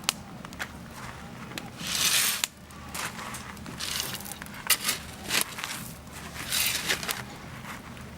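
Wood campfire crackling, with sharp irregular pops and three short bursts of hiss.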